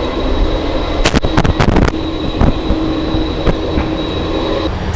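Jet airliner engines running at low power, a steady high whine over a rumble, with a cluster of sharp clicks between one and two seconds in. The high whine cuts off just before the end.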